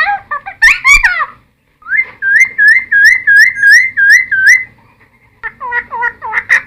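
A cucak timor singing loud whistled notes: varied swooping phrases, a short break, then a run of about nine quick identical hooked whistles at roughly three a second. After a pause, more varied falling notes come in near the end.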